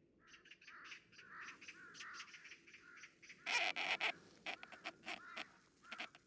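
A bird calling over and over, a quick run of short calls, loudest for about half a second in the middle.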